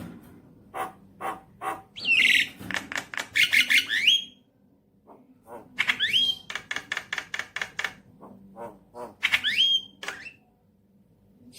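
Javan myna (jalak kebo) song: three bouts of rapid, harsh chattering notes mixed with rising whistles, played as a lure call to prompt another myna to sing.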